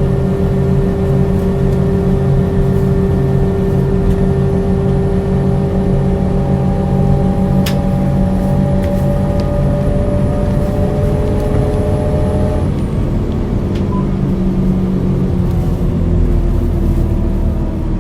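2001 Scania L94UB bus with its DC9 9-litre six-cylinder diesel running steadily while under way, with a set of whining tones that slowly fall in pitch. The tones change about two-thirds of the way through, and the low rumble grows heavier near the end.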